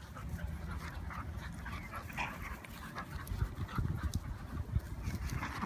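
A dog making short sounds while playing, thickest about two seconds in and again just before the end, over a low rumble.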